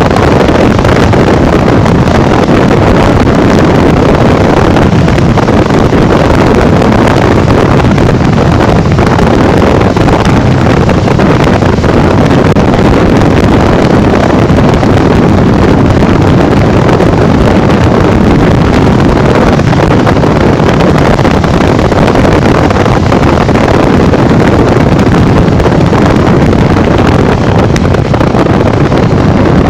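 Steady, loud wind noise on the microphone from riding a Honda Bros 150 motorcycle at speed.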